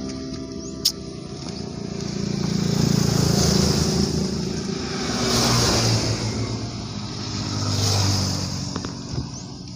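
Motor vehicles passing one after another on a road, about three pass-bys that each swell and fade, with engine hum and tyre hiss. A single sharp click about a second in.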